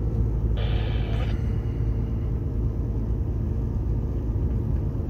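Steady low rumble of a long-haul truck's running engine, with a short hissing noise about a second in.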